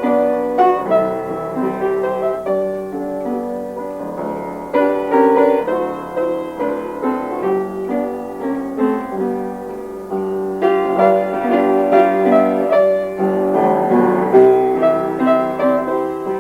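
Solo piano playing a slow instrumental passage, a song's accompaniment between sung lines, with chords and melody notes struck and left ringing.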